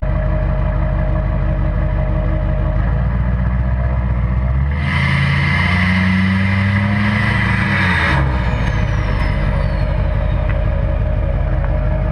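LMM Duramax 6.6-litre turbodiesel V8 through a straight-piped exhaust with the cat, DPF and muffler deleted: idling, then revved for about three seconds from about five seconds in, with a loud rushing hiss that cuts off sharply as the throttle closes. A thin whistle then falls away over a couple of seconds as the turbo spools down, and the engine settles back to idle.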